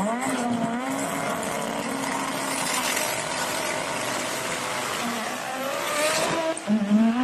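Car engines racing, the pitch climbing soon after the start and again near the end, over a steady rush of noise.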